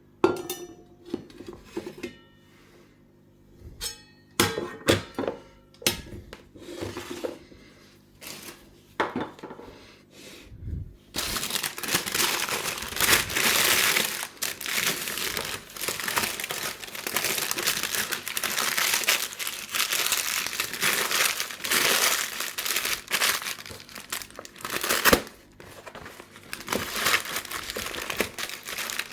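A few light clinks and knocks with brief ringing, then from about eleven seconds in, continuous crinkling and crumpling of packaging material being handled.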